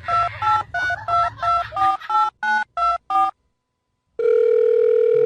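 Telephone keypad touch-tones: about eleven quick two-pitch beeps as a number is dialled, then a pause and a long steady tone on the line.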